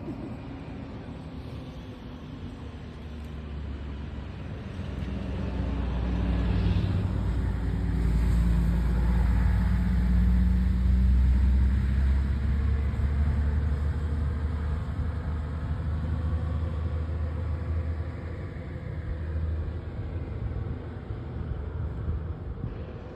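Motor vehicle passing by: a low engine and road rumble swells to a peak about ten seconds in, then slowly fades away.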